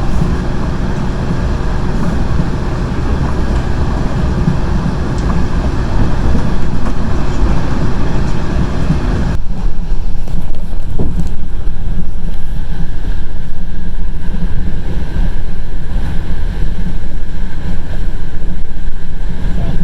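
Moving passenger train heard from a carriage window: a loud, steady rumble from the running train, with wind buffeting the microphone. About nine seconds in, the higher hiss cuts off suddenly, leaving mostly a low rumble.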